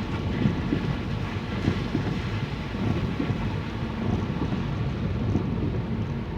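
Wind buffeting the microphone in a steady low rumble, with rain falling, while travelling along a wet road.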